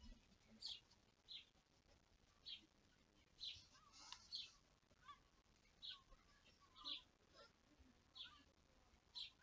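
Faint garden birdsong: short high chirps repeated about once a second, joined by softer, lower twittering from about four seconds in.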